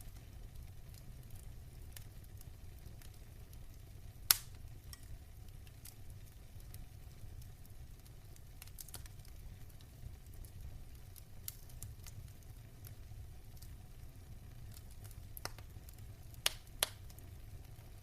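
Wood fire in a fireplace crackling over a steady low rumble, with scattered small ticks and sharp pops: one loud pop about four seconds in and two more in quick succession near the end.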